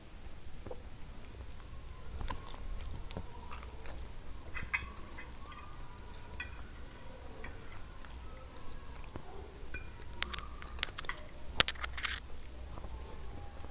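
Close-miked chewing and wet mouth sounds of eating chicken wings and soft stewed eggplant, with scattered small clicks. A sharp click near the end, as a metal fork picks food off the plate.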